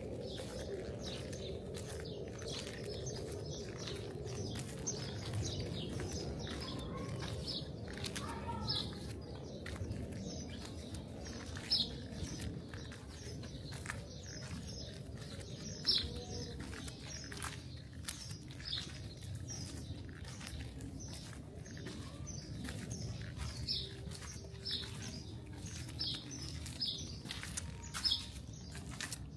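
Small birds chirping in short, repeated calls over a steady low rumble of city background noise, with a few louder chirps standing out.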